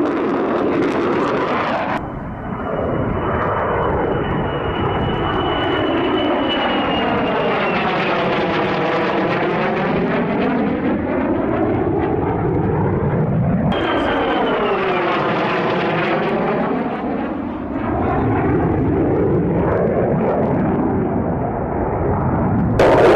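F-35 fighter jet engines running as the jets pass by, with a high whine that falls slightly in pitch during each pass. The sound changes abruptly to another pass about two seconds in and again about halfway through.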